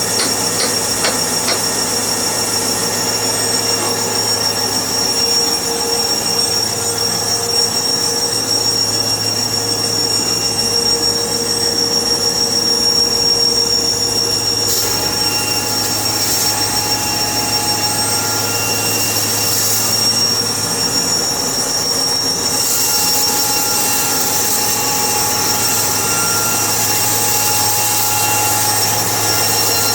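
Sawmill machinery running: a steady hum with high, squealing whine tones. A hiss of higher-pitched noise swells about halfway through and again from about two-thirds of the way in, the sound of the saw cutting.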